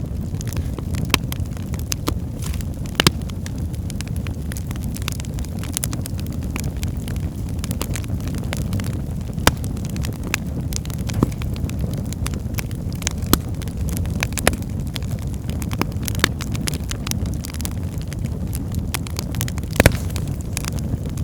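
Log fire burning in a fireplace: a steady low rumble of flame with frequent sharp crackles and pops, a few of them louder than the rest.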